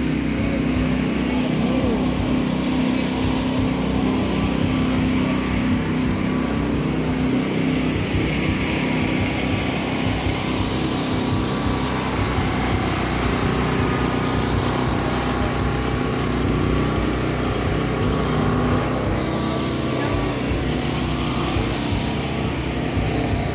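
An engine running steadily, with a low hum that holds through the whole stretch and shifts only slightly in pitch.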